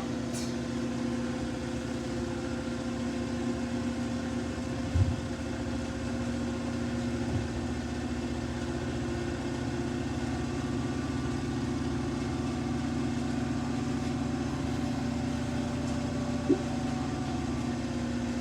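Samsung washing machine running with a steady motor hum, with a short thump about five seconds in and another near the end.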